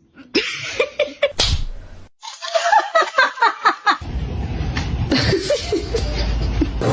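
Laughter, a run of short rhythmic bursts about five a second, from about two seconds in, with a sharp slap-like hit before it.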